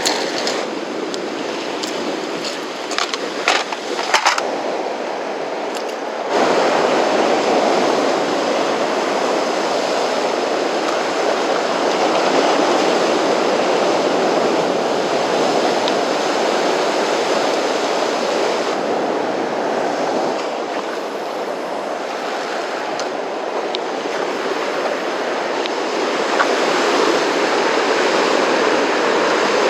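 Rough, typhoon-churned sea surging and washing against the shore. A few sharp clicks come early, and the noise jumps louder about six seconds in.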